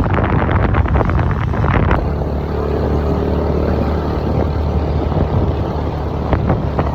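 TVS Ntorq scooter engine running steadily on the move, with wind buffeting the microphone. The sound is choppy for the first two seconds, then smoother.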